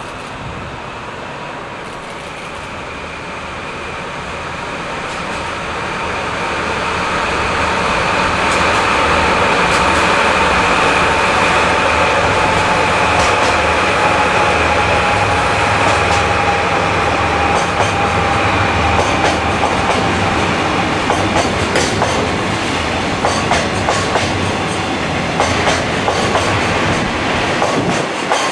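A freight train hauled by two DD51 diesel-hydraulic locomotives running together passes close by, followed by a long string of tank wagons rolling past. The rumble grows to its loudest about eight seconds in, with a steady high whine through the middle. In the second half, rapid clicks of wheels over rail joints come to the fore.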